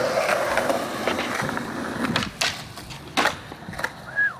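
Skateboard wheels rolling, then several sharp clacks of the board hitting the ground in the second half, as a trick is attempted.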